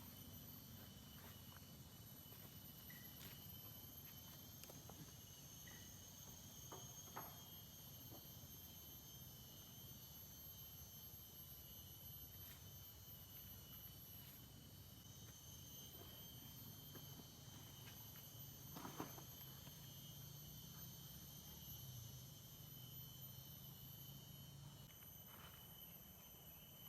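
Faint, steady chirring of forest insects, heard as a few continuous high tones, with a few soft clicks.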